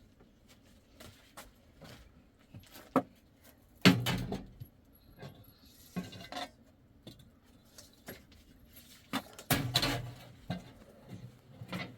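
Scattered knocks and clinks of household objects being handled, with two louder bursts of clatter about four seconds and ten seconds in.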